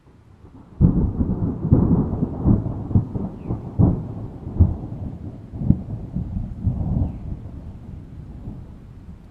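Thunder: a sudden clap about a second in, then a long rolling rumble broken by repeated cracks that slowly dies away.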